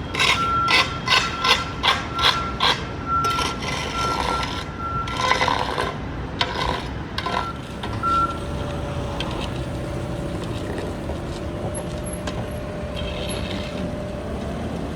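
Street traffic and construction noise from a truck and other vehicles. A quick series of sharp knocks, about three a second, fills the first few seconds, then it settles into a steady engine drone.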